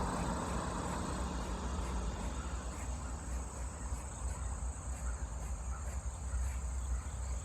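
Insects trilling steadily at a high pitch, like crickets, over a continuous low rumble.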